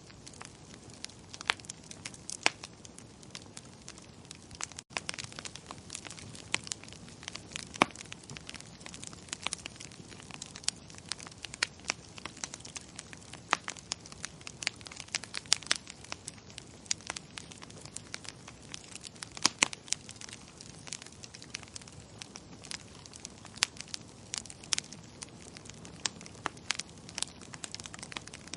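Wood fire in a fireplace crackling: a steady low hiss of flames with frequent sharp, irregular pops and snaps. A momentary dropout about five seconds in.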